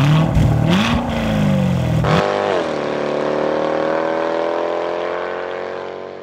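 Sports car engine revving through a quad-tip exhaust, its pitch rising and falling. After about two seconds it cuts off suddenly and gives way to a steady held tone that slowly fades out.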